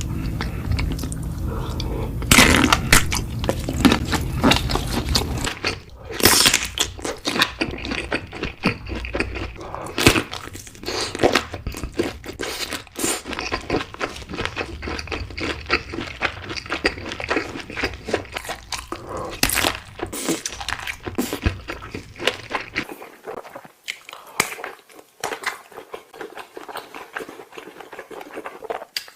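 A person biting and chewing sausages close to the microphone, a dense irregular run of sharp wet mouth clicks and smacks.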